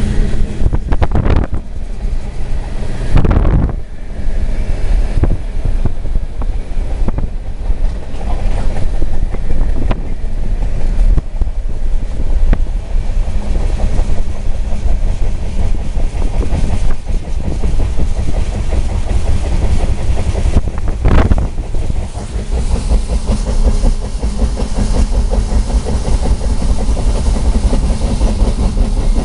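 Freight train of refrigerated boxcars rolling past close alongside, heard from a car driving beside it: a steady heavy rumble with wheel clatter. Three sharp thumps stand out, two in the first few seconds and one about two-thirds of the way through.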